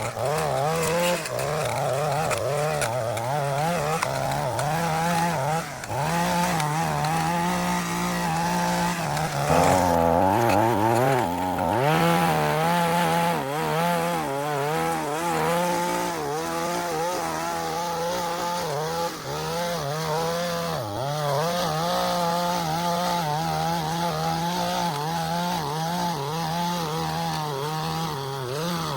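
Small gasoline engine of lawn-care equipment running steadily under load, its pitch wavering as it works through grass. About ten seconds in, the engine note sags, then climbs back.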